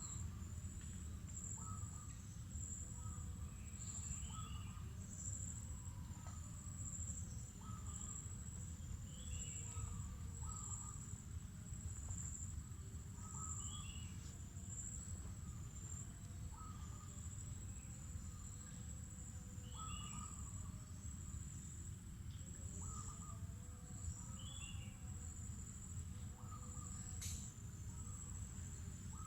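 Insects keep up a steady, high-pitched trill while birds call repeatedly. Short notes come every second or two, and a falling call sounds every few seconds, over a low rumble. A single click is heard near the end.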